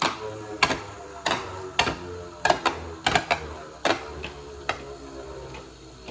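Two Beyblade Burst spinning tops whirring in a plastic stadium and clashing with sharp clacks about every half second to second, fewer after the first few seconds.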